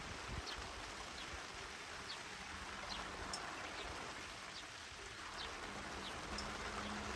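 Steady rain falling, an even hiss, with short high chirps scattered through it and a faint low steady hum that begins about two seconds in.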